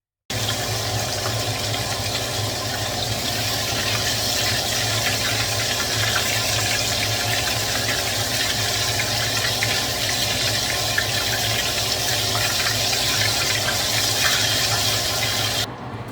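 Flour-dredged chicken wings deep-frying in hot oil: a loud, steady sizzle full of fine crackling, over a low steady hum. It starts and stops abruptly.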